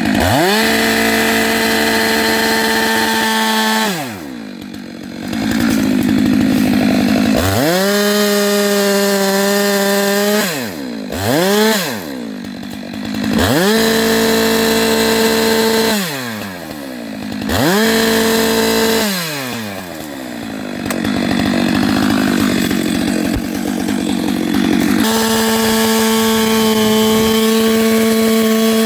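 Two-stroke chainsaw cutting into a dead standing tree being felled. The throttle is held wide open for bursts of a few seconds, about six times, with the engine pitch dropping away between bursts and climbing back.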